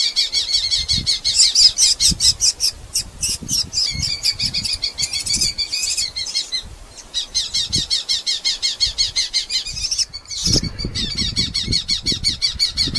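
Red-footed falcons giving a rapid, high chattering call, many notes a second, in several runs broken by short pauses.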